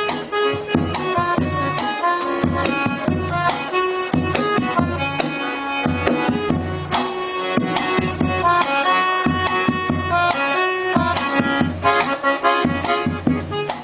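Accordion playing a melody with chords, over a steady percussion beat struck a little under once a second.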